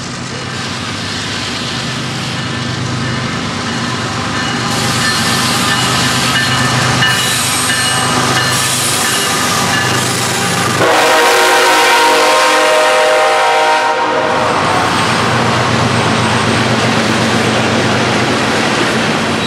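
Loud BNSF coal train passing close: the lead diesel locomotives' engines running, a held air-horn chord of about three seconds starting about eleven seconds in, then the coal hopper cars rolling by with a steady rumble over the rails.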